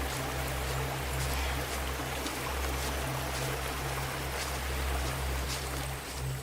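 Running stream water, an even rushing wash over a low steady rumble, with faint high ticks now and then.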